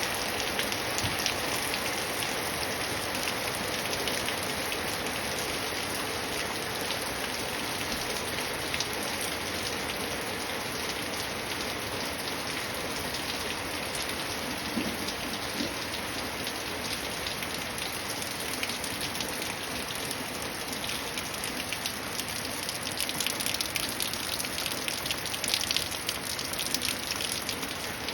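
Steady rain falling, with the ticks of many individual drops hitting a surface. The rain grows denser and a little louder near the end.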